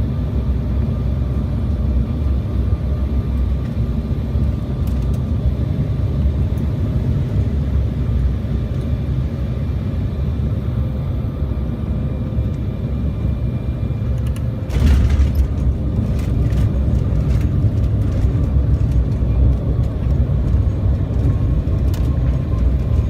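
Steady low rumble of a jet airliner heard inside the cabin. About fifteen seconds in it turns suddenly louder with a burst of rattling clicks, and it stays louder after that.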